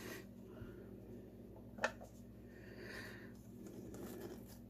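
Quiet handling of kitchen things, with one sharp click a little under two seconds in and a soft rustle about three seconds in.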